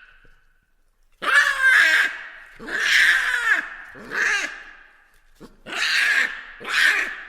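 Baboons calling: after about a second of quiet, five loud, harsh pitched calls follow one after another, each under a second long.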